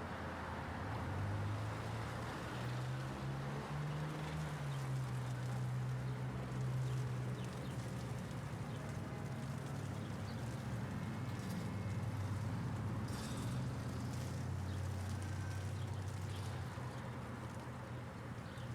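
City street traffic: vehicle engines running and passing as a low hum that slowly shifts in pitch, over a steady hiss of road noise. Scattered light ticks of hail fall about two-thirds of the way through.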